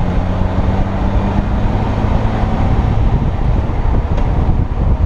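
Honda Gold Wing motorcycle running at road speed, its engine hum under wind rushing over the microphone. The engine tone fades about halfway through, leaving mostly the wind noise.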